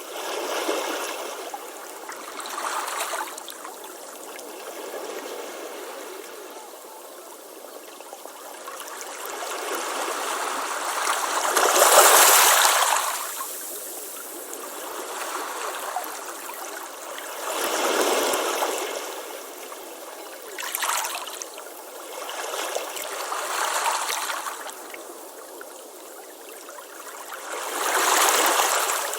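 Ocean waves breaking on a beach: a steady hiss of surf that swells and falls back with each wave. The biggest wave is about twelve seconds in, with others near eighteen and twenty-eight seconds.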